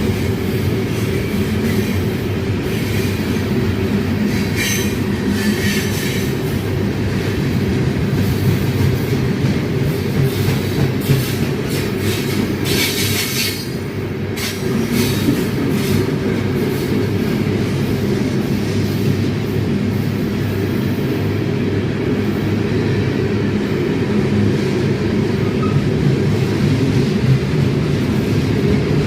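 Ferromex freight train rolling along with a steady, heavy rumble of cars on the rails. Brief higher, hissing or screeching sounds rise over it about five seconds in and again about thirteen seconds in.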